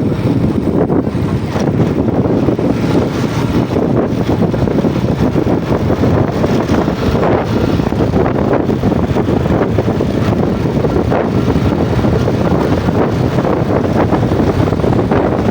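Yamaha Jupiter MX motorcycle being ridden, its engine running steadily under heavy wind buffeting on the microphone.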